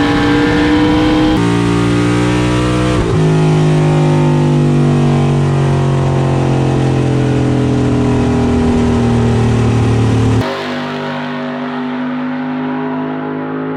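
A race vehicle's engine running hard, heard across several abrupt cuts. For most of it the note slides slowly down in pitch, then drops to a quieter, steadier note near the end.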